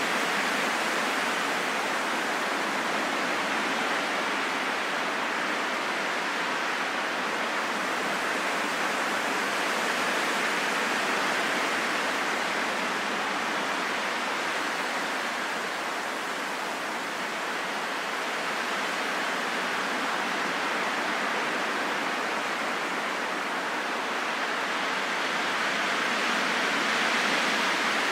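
Wind blowing as a steady, smooth rush with no whistling tones. It eases slightly about midway and swells again near the end.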